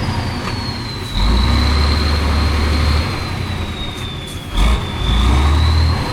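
Heavy off-road competition truck's diesel engine revving hard in two surges, with a thin high whine above it that slowly drops in pitch.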